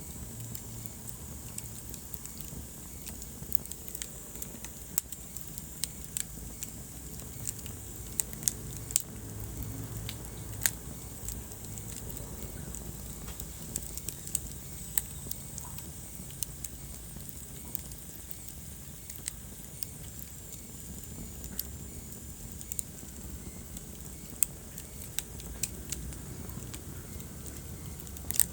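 Wood fire burning in a fireplace, crackling: sharp irregular pops and snaps over a steady low rumble of flame.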